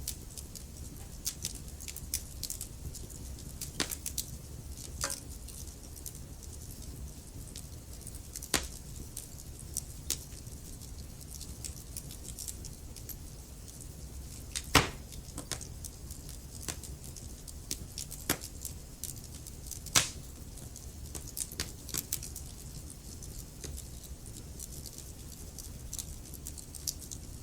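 Wood fire crackling in a fireplace: many small irregular ticks and a few louder pops, the loudest about 15 and 20 seconds in, over a steady low rumble.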